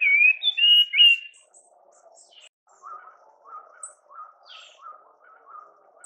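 Songbird singing: a loud phrase of clear whistled notes with quick pitch glides for about the first second and a half, then a quieter short call repeated about twice a second, with a few faint high chips.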